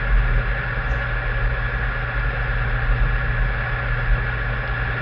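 Microwave oven running: a steady, unbroken hum, played as a recorded sound effect.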